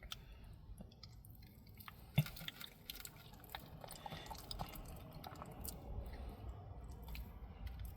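Dog chewing a soft bite of ham and egg, faint wet smacking clicks with one sharper click about two seconds in.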